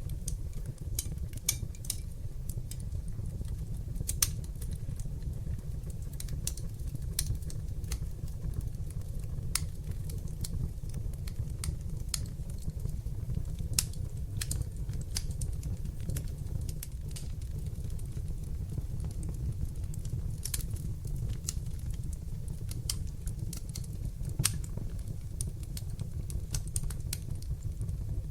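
Wood fire burning in a fireplace: irregular sharp crackles and pops over a steady low rumble of the flames, with a few louder pops now and then.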